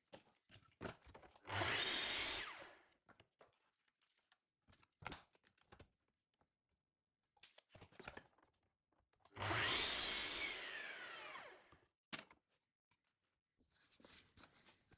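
A power tool run twice in short bursts, each time falling in pitch as it winds down, with scattered knocks and clicks of wood being handled between the bursts.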